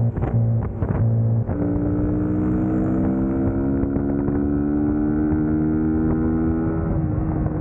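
Suzuki GSX-S150's single-cylinder four-stroke engine under way: a few short, choppy bursts of throttle in the first second and a half, then a steady pull with its pitch rising slowly, easing off a little near the end.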